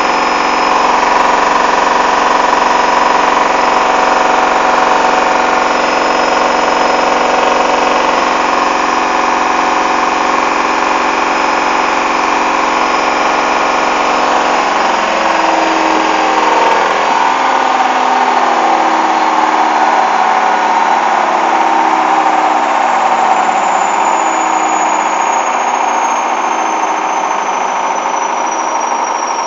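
Hoover washing machine's drum and motor on the final spin, running steadily with a load the uploader calls very unbalanced. About halfway through the sound changes: a rhythmic pulsing about once a second sets in and a high whine slowly falls in pitch as the drum begins to slow down.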